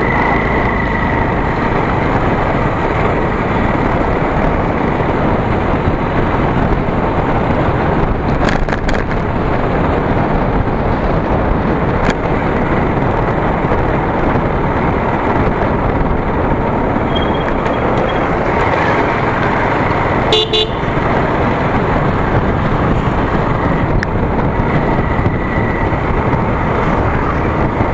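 Steady rush of wind and road noise on a moving motorcycle, with a short horn toot about twenty seconds in.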